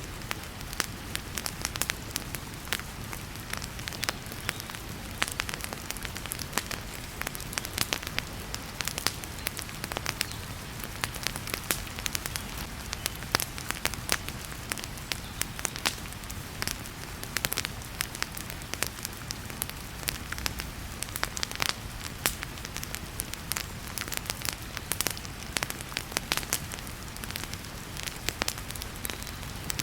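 Wood fire crackling in a fireplace, with frequent sharp pops and snaps, over the steady hiss of heavy rain.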